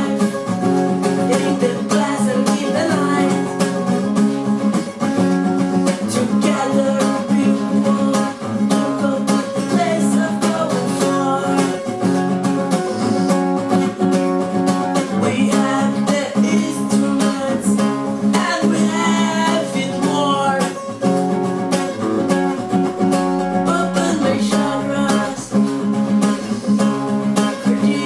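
Music: a strummed acoustic guitar playing steadily.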